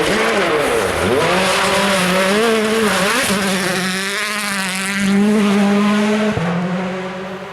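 A World Rally Car's engine revving hard, its pitch dropping and climbing again as the driver lifts and shifts. There is a sharp crack about six seconds in, and the sound fades near the end as the car moves away.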